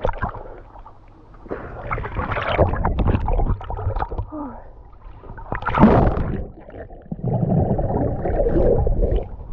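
Water splashing and gurgling in uneven bursts as a person swims in cold sea water, the loudest splash about six seconds in.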